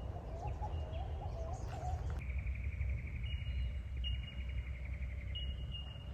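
Wild birds calling over a steady low rumble of outdoor ambience. A wavering warbled call comes in the first two seconds, then a long rapid trill with short higher notes over it.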